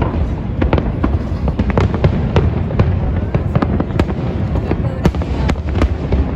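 Fireworks bursting in rapid, irregular succession, sharp cracks and booms overlapping on a continuous low rumble.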